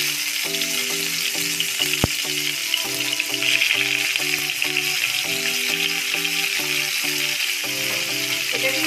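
Cauliflower florets sizzling steadily as they fry in hot refined vegetable oil in a frying pan, with one sharp click about two seconds in. Soft background music plays underneath.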